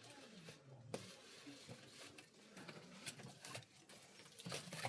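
Near silence with a few faint scattered clicks and taps.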